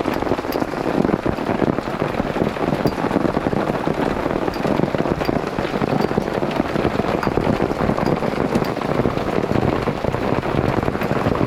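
Heavy rain pattering on surfaces in a dense, steady stream of drop hits.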